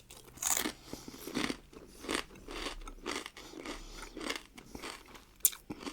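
Close-miked chewing of a crunchy pickled cucumber, a wet crunch with each chew about once a second, and a sharp click near the end.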